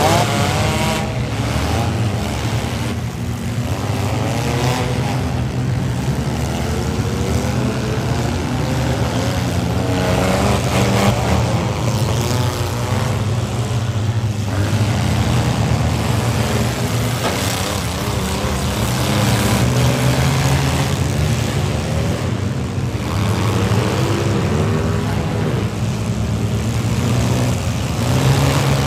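Several minivan engines revving hard at once in a demolition derby, their pitches rising and falling as the vans drive at and ram one another, with occasional crunches of metal on impact.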